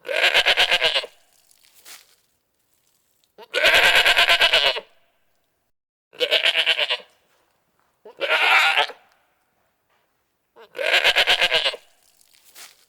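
Goat bleating five times, each call about a second long with a quavering, pulsing tone, spaced two to three seconds apart.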